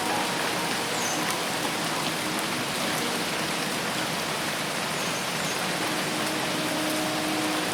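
Heavy rain falling steadily in a forest, a dense even hiss, with a few faint high chirps in it.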